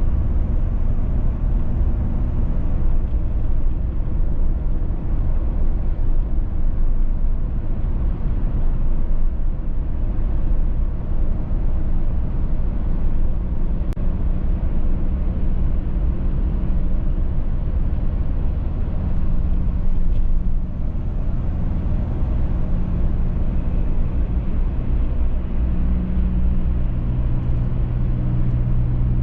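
Car driving along at speed: a steady rumble of road and tyre noise with a low engine hum that grows a little stronger near the end.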